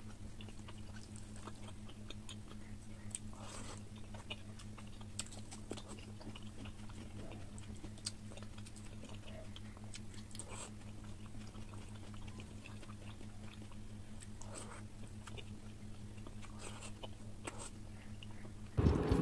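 Close-miked wet chewing and mouth smacks of someone eating rice and curry by hand, scattered clicks over a steady low hum. A much louder sound cuts in just before the end.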